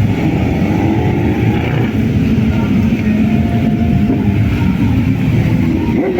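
Motorcycle engines running, their pitch drifting up and down as they rev.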